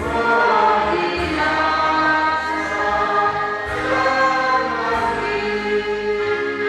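A choir singing with instrumental accompaniment, in long held notes.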